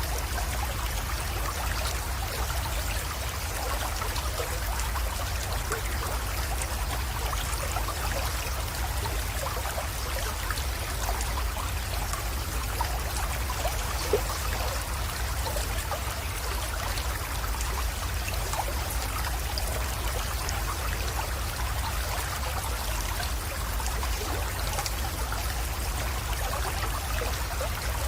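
Small creek water flowing and trickling steadily, a continuous spattering of fine splashes, with one brief click about halfway through.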